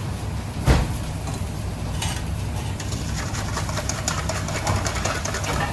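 Steady low mechanical hum of kitchen machinery, with a sharp knock under a second in and fine crackling, like food sizzling in a pan, through the second half.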